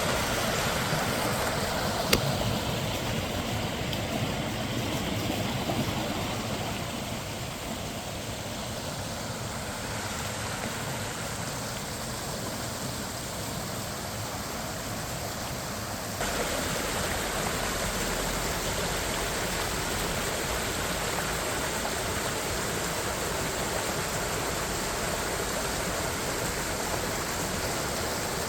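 Minnehaha Creek's water rushing and splashing as a steady noise, with a single sharp click about two seconds in. About sixteen seconds in the water suddenly gets louder and brighter, as at a change of shot.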